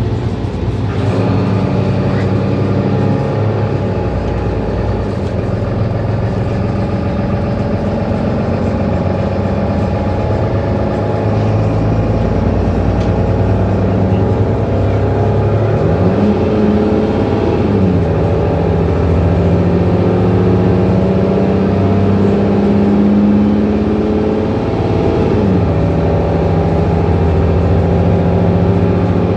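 Mercedes-Benz Citaro C2 city bus engine running under way. Its note rises about halfway through, falls back, climbs slowly again and drops sharply near the end.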